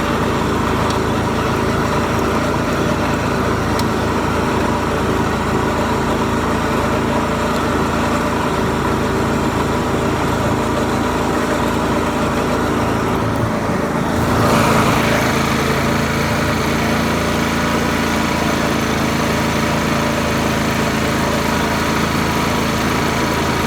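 Garden tractor engine running steadily, then revving up briefly a little past halfway before settling back.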